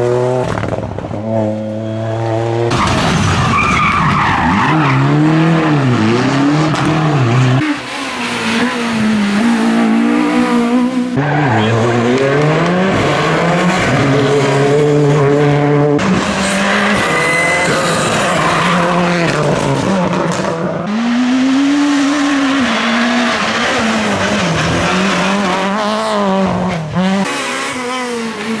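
A series of rally cars driven hard, their engines revving high and dropping again and again through gear changes and corners, with tyres squealing and skidding at times. Sudden changes in the sound every few seconds mark cuts between different cars.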